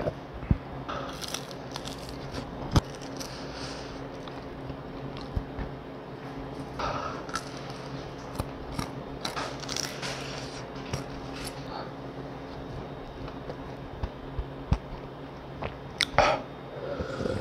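Close-miked eating sounds: fried chicken being bitten and chewed, with scattered crunches and short clicks at irregular moments.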